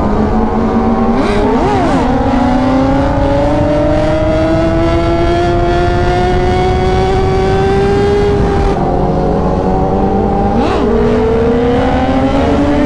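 Superbike engine under hard acceleration, its pitch climbing steadily through a gear, dropping suddenly at an upshift about nine seconds in, then climbing again, over a steady low rush of wind.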